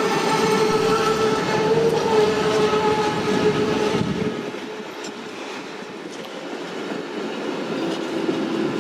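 A train running through a station, with a steady whine over the rail noise that fades about four seconds in; a lower tone builds again near the end.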